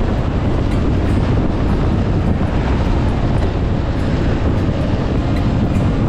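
1972 Yamaha DT-1F's 250 cc single-cylinder two-stroke engine running steadily under way, with heavy wind on the microphone.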